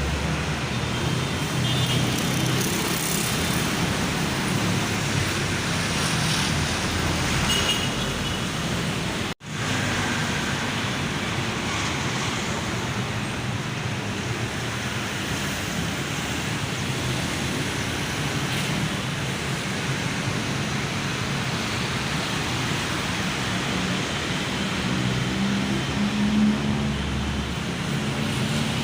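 Heavy rain falling in a strong wind: a steady hiss with gusts rumbling on the microphone. The sound drops out for an instant about nine seconds in.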